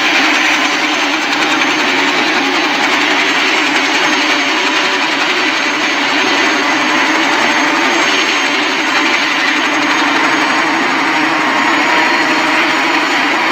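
Helicopter running steadily: a loud, continuous engine and rotor noise.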